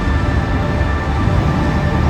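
Dark, ominous background music with long held notes over a steady low rumble of vehicle and road noise.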